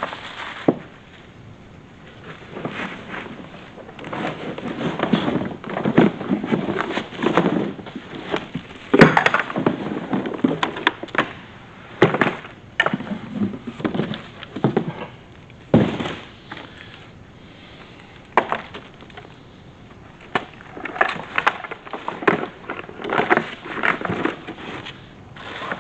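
Unboxing: cardboard and plastic packaging rustling and crinkling, with frequent knocks and clicks as the pressure washer's parts are pulled out and set down.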